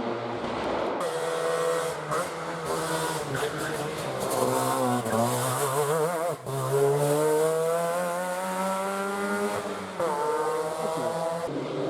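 Rally car engine revving hard on a stage. The pitch wobbles and dips, climbs steadily for about three seconds, drops sharply about ten seconds in and climbs again as it accelerates.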